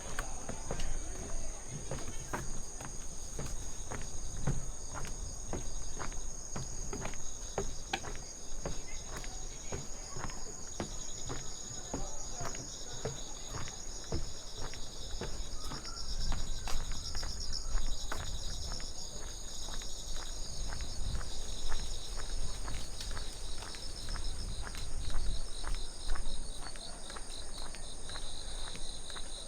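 Insects chirring in steady high trills, with the regular footsteps of someone walking on a path.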